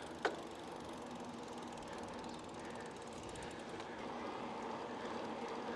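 Bicycle riding along: a steady rush of tyre and wind noise, with one short click just after the start and a fast, even ticking in the middle, like the rear hub's freewheel clicking while coasting.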